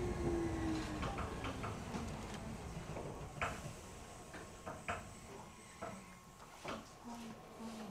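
Nagano Electric Railway 3500 series electric train heard from inside the car as it slows to a stop. Its running whine falls in pitch and fades out over the first couple of seconds, leaving scattered clicks and creaks from the car as it comes to rest.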